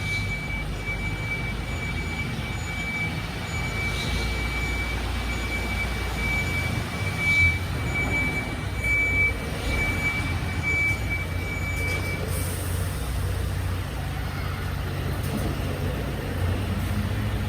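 A heavy recycling truck's diesel engine running steadily at low revs, with a high steady tone over it that stops about twelve seconds in. Two brief louder bumps come around seven and nine seconds in.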